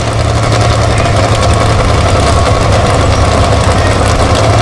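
An off-road vehicle engine running loud and close at a steady, even speed.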